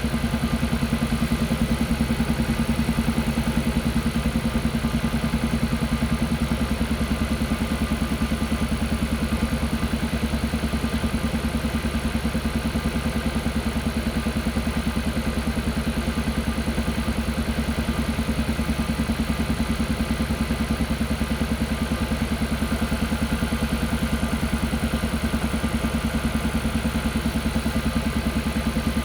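Kia Carnival Hybrid's engine running steadily with a rapid, even pulsing 'puck-puck-puck' (퍽퍽퍽) noise.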